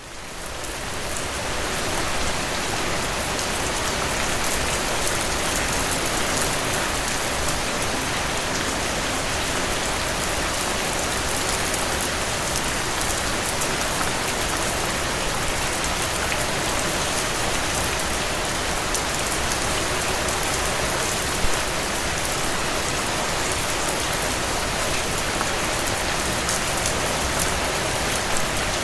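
Steady rain falling on a surface: a dense, even hiss with fine ticks of individual drops. It fades in over the first couple of seconds, then holds steady.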